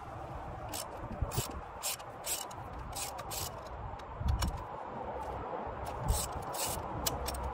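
Irregular metallic clicks and clinks of hand tools being handled while working on a car engine, over a low rumble that sounds like wind on the microphone.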